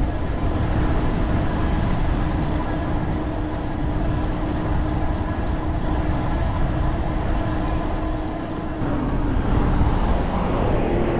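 Motorcycle riding down the road: a steady engine hum under heavy wind and road rumble, changing a little near the end.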